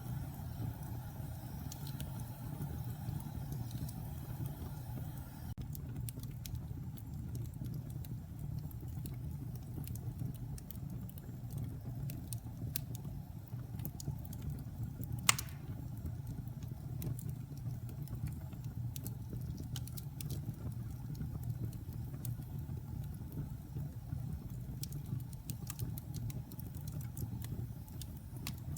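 Log fire crackling: scattered small crackles over a low steady rumble, with one loud pop about fifteen seconds in.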